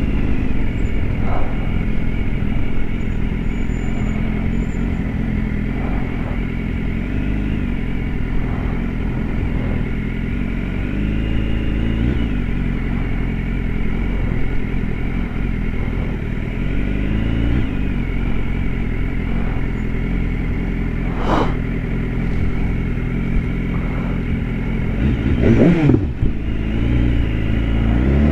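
BMW S1000RR's inline-four engine running under way, its note rising and falling gently with the throttle. About 25 seconds in it revs up sharply and drops back.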